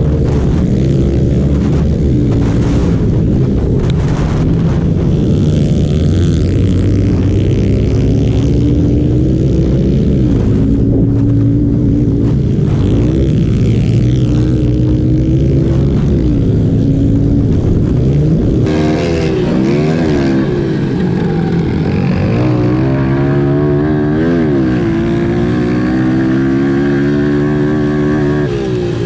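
Small pit bike engines racing, revving up and down in repeated rising and falling sweeps as the riders work through the gears. About two-thirds of the way through the sound shifts abruptly to a different mix of engines with higher, wavering revs.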